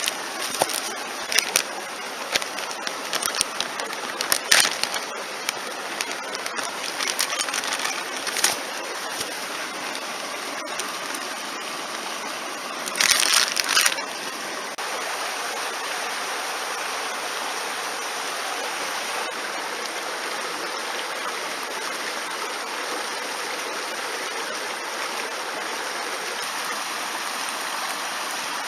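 Mountain stream rushing steadily. Sharp cracks and snaps come over it for roughly the first ten seconds, with a louder rustling burst of about a second near the middle.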